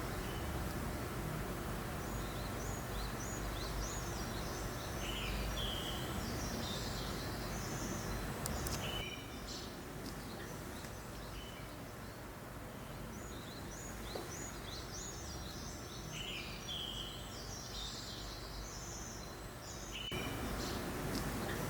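A steady breeze rustles through the forest while small songbirds chirp in short, high calls, bunched into two spells, one early and one in the second half. The background hush drops suddenly about nine seconds in and comes back up near the end.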